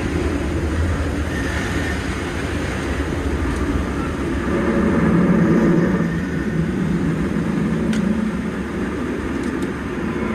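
Electric commuter train running slowly, heard from inside the driver's cab: a steady rumble with a low hum that grows into a louder drone about halfway in.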